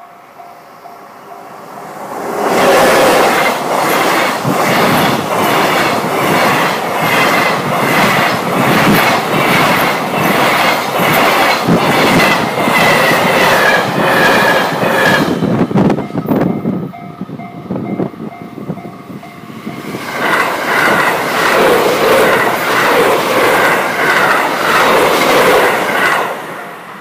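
An EF81 electric locomotive with a long freight train of tank container wagons passes close by, wheels clacking steadily over the rail joints, and fades about 16 seconds in. About 20 seconds in, a 681-series limited-express electric train passes at speed with a rush of wheel and rail noise, dropping away near the end.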